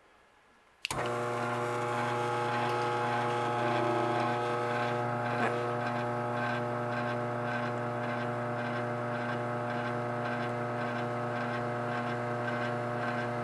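Garage door opener motor starting about a second in and running steadily with an even electric hum, then stopping near the end. The opener sits on a towel, which keeps it pretty quiet.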